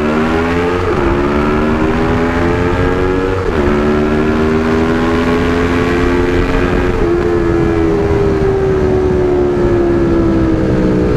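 Motorcycle parallel-twin engine under way: its pitch climbs, then drops sharply with an upshift about a second in and again about three and a half seconds in, then holds a steady cruise, slowly easing off.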